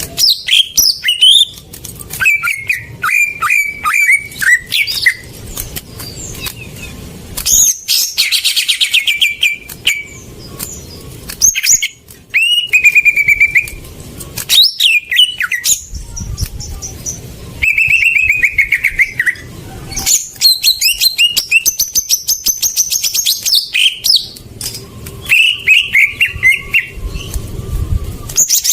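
Cucak ijo (green leafbird) song played as a lure: a continuous, varied string of loud whistled notes, rapid trills and chirps, with many short phrases separated by brief pauses.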